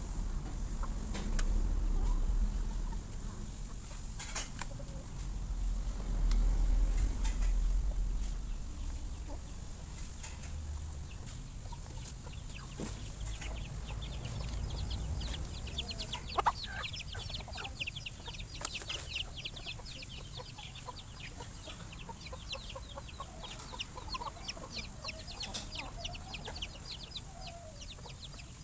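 Chickens clucking. From about halfway there is a dense run of rapid light clicking under short calls.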